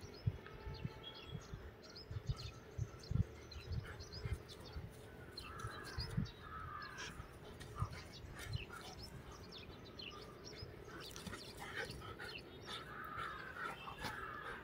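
Birds calling in the background, with bursts of calls about six seconds in and again near the end, over scattered soft thumps and rustles.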